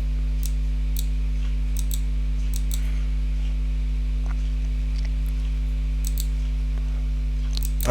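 A few scattered clicks of a computer keyboard and mouse, irregular and a second or so apart. Under them runs a steady low electrical hum.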